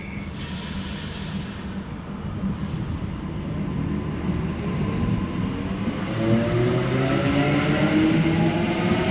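Sydney Trains B set (Waratah Series 2) electric train pulling out of the platform and accelerating. Its traction motors whine in several tones that climb steadily in pitch from about halfway in, growing louder.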